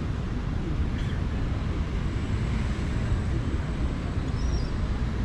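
Outdoor city ambience: a steady low rumble of distant engines with wind noise, and a couple of faint, short high chirps.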